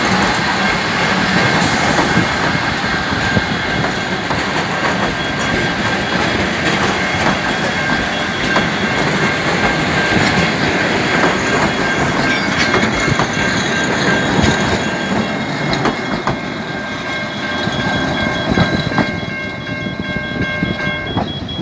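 Steam-hauled passenger train rolling past at low speed, carriage wheels clicking over the rail joints, with steady high-pitched tones above the rumble that stop near the end.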